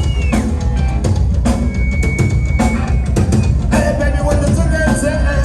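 Live rock band playing loudly, the drum kit prominent with steady bass drum and snare hits under the guitars and bass.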